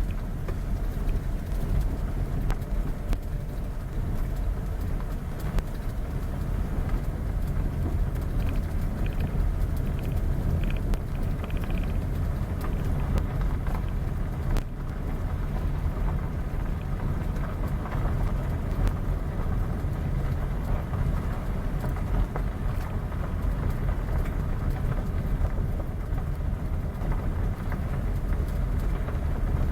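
Vehicle on the move: a steady low road-and-engine rumble, with a few short high tones between about eight and twelve seconds in.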